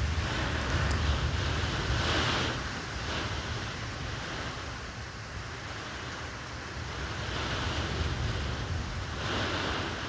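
Hurricane wind blowing in gusts, with heavy wind rumble on the microphone; the gusts swell about two seconds in and again near the end.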